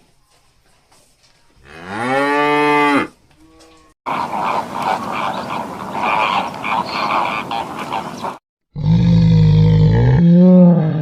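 Cattle mooing: a pitched call that rises and falls about two seconds in, then after a noisier stretch a deep, loud moo lasting about two seconds near the end.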